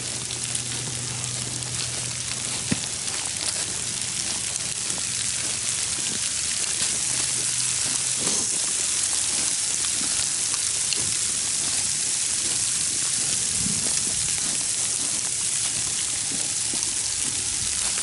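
Steady rain falling: a dense, even hiss of many small drops with faint scattered ticks.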